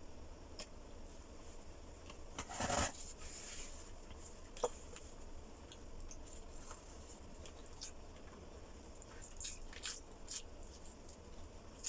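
Close-miked eating sounds: quiet chewing with scattered small clicks and a short rustling burst about two and a half seconds in.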